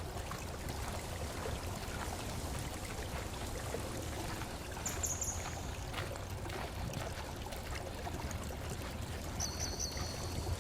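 Woodland ambience: a steady rushing noise like running water, with a bird's short high calls about halfway through and a quick run of repeated high notes near the end.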